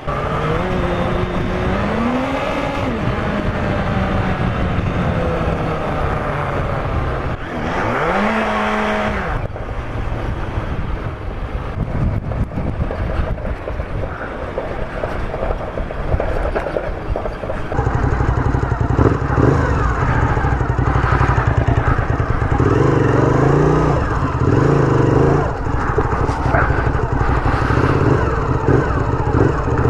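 Sport motorcycle engine under way, its note rising and falling with throttle and gear changes. About halfway through it gets louder, with the throttle opened and closed again and again.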